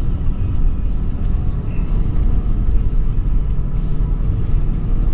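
2013 Toyota 4Runner's V6 engine and drivetrain rumbling steadily as the SUV drives over sand dunes.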